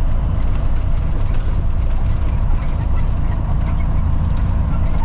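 Freightliner FLD truck's diesel engine running steadily while driving, a constant low rumble heard from inside the cab.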